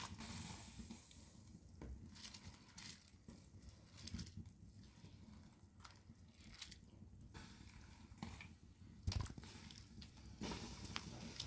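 Faint, scattered small clicks and knocks at an irregular pace, with one louder dull thump about nine seconds in.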